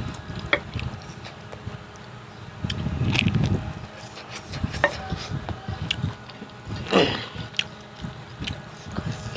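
Close-miked eating: biting and chewing pork and bamboo shoots cooked with rice powder. Scattered sharp clicks run over a low chewing rumble, with louder mouth noises about three and seven seconds in.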